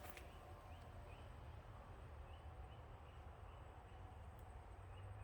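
Near silence, with a faint bird repeating a short rising chirp about every half second over a low hum.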